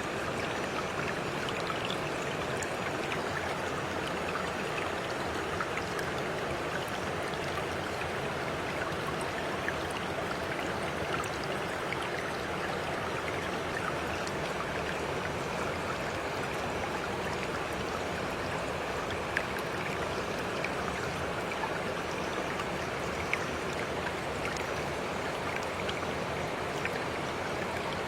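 A stream of water running steadily with an even rushing and trickling, flecked with brief ticks here and there.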